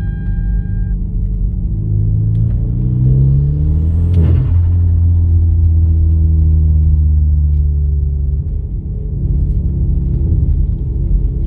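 Hyundai Genesis Coupe's 2.0-litre turbocharged four-cylinder revving up under boost, then the throttle snaps shut about four seconds in with a brief turbo flutter. The flutter comes from the compressor surging because the blow-off valve's feed line is pinched shut, so the valve cannot vent. The engine then holds a steady lower note and drops off near the end.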